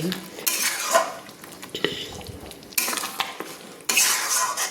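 Spatula stirring chicken curry with freshly added coriander paste in a hot kadai, scraping against the pan with the food sizzling, in about three spells of stirring.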